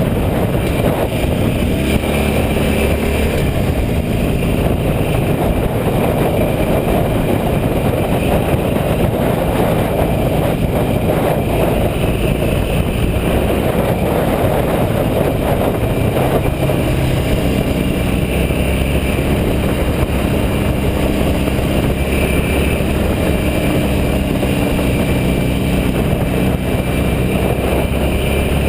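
A road vehicle on the move, its engine running under a steady rush of road and wind noise. The engine note shifts slowly up and down with speed.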